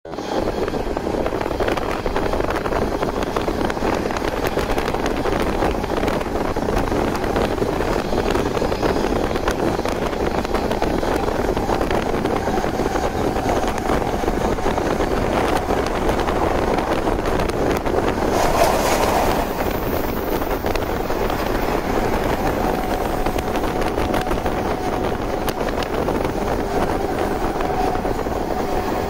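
JNR 185 series electric train running at speed, heard on board: a steady rumble of wheels on rail, with a brief louder rush about two-thirds of the way in.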